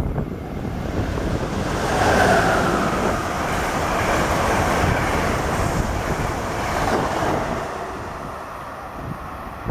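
Amtrak passenger train passing at speed on a through track, a rush of wheels on rail and moving air that swells about two seconds in, holds, and fades over the last couple of seconds. Wind buffets the microphone throughout.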